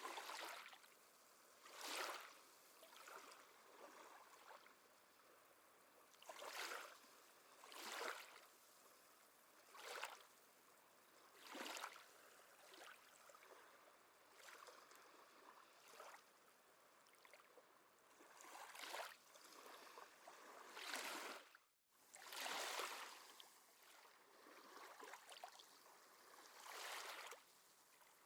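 Faint small waves washing in on a shore, a soft swell of water hiss every second or two. The sound cuts out for an instant about two-thirds of the way through.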